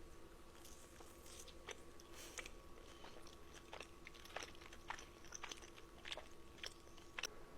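Close-miked chewing of crunchy food, a quick run of crisp crunches from repeated bites.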